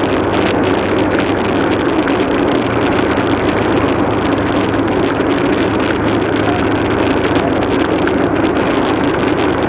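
Motorcycle engine running at a steady speed under way, with road noise; the pitch holds even throughout.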